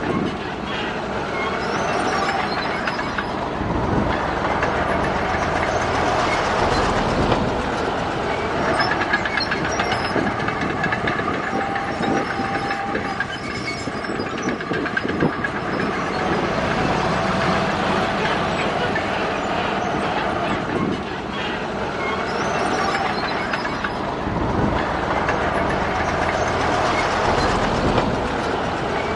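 Crawler bulldozer working: its diesel engine runs steadily under the clatter and squeal of its steel tracks, with rapid metallic clicking and brief squealing tones that come and go.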